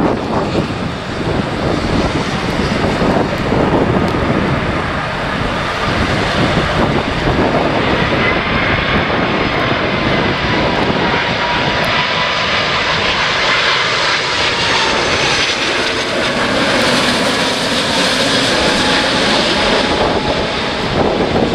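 Jet airliner's engines running as it passes on landing approach, a low rumble with a faint whine that comes through about a third of the way in and grows brighter later on, over gusting wind on the microphone.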